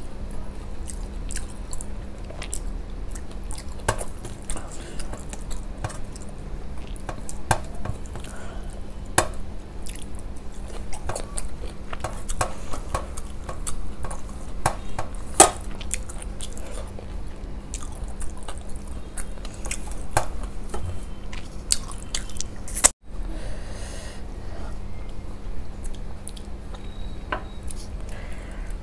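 Close-miked chewing and wet mouth sounds of a person eating rice and curry by hand, with scattered short clicks and smacks. There is a brief break about two-thirds of the way through.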